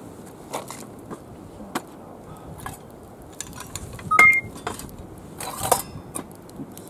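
Camp gear being handled by the fire: scattered light knocks and clicks, with one short ringing metallic clink about four seconds in, the loudest sound, followed soon after by a brief cluster of rustling knocks.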